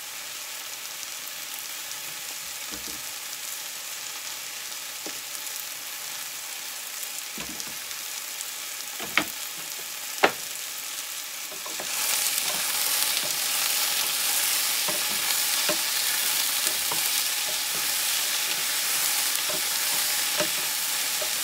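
Ratatouille vegetables frying in oil in a pan: a steady sizzle that gets clearly louder about twelve seconds in. Shortly before that rise there are two sharp taps about a second apart.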